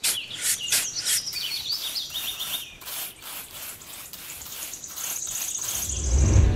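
Small hand trowel scraping through dry sand in repeated short strokes, with birds chirping over it and a high trill about five seconds in. A loud low rumble swells in near the end.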